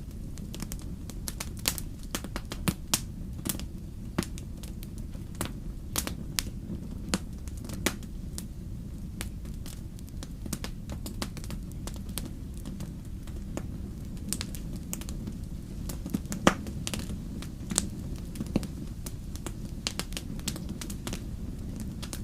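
Wood fire crackling in a fireplace: irregular sharp pops and snaps, several a second, with a few louder pops, one about sixteen seconds in, over a steady low rumble.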